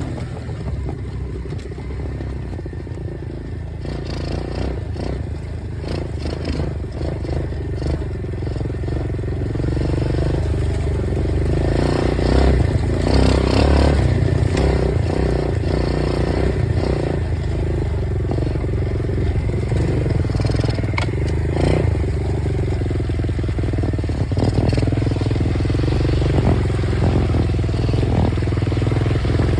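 Dirt bike engine running, its pitch rising and falling with the throttle, with scattered clattering knocks over it. It grows louder over the first dozen seconds or so, then holds steady.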